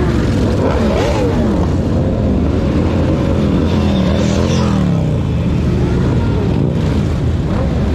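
Motorcycle engines running and revving, their pitch rising and falling and sliding down across the middle, over a steady heavy rumble of traffic.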